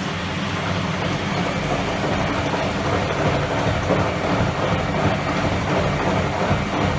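Hoover Electra 535 Dual Spin washing machine running up into its interim spin after the fourth rinse, the motor and drum sound getting gradually louder.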